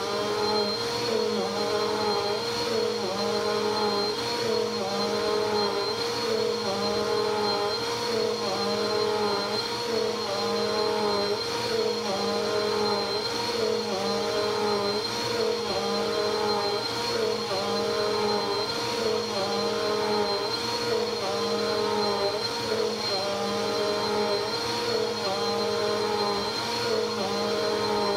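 Bissell vacuum cleaner running steadily with a high whine, its motor note dipping and rising about once a second as it is pushed back and forth over the floor.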